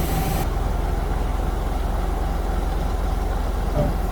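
Heavy diesel engine of a concrete pump truck running steadily at idle.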